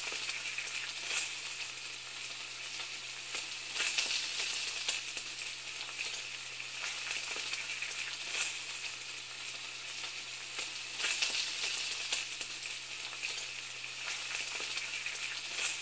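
Food sizzling in a hot pan: a steady frying hiss with irregular crackles and pops, over a faint low hum.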